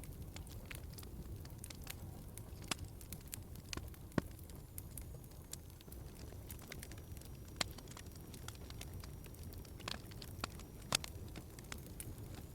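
Wood fire crackling in a fireplace: a steady low rumble of burning with scattered sharp pops, two of them louder, about four and eleven seconds in.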